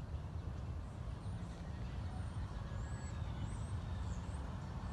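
Several short, faint, high bird chirps over a steady low rumble.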